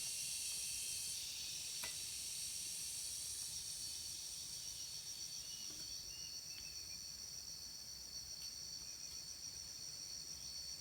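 Steady high-pitched insect chorus with a fast pulsing trill, with a faint click about two seconds in.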